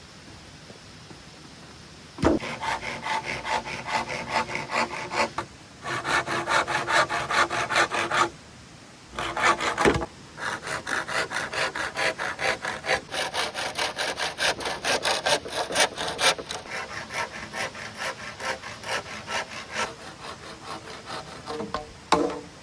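Hand saw cutting bamboo with rapid back-and-forth strokes, several a second, in bouts broken by short pauses. There are sharp knocks about two seconds in and again about ten seconds in.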